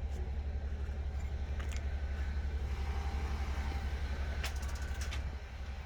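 Vehicle engine running with a low, even throb, a few light clicks near the end.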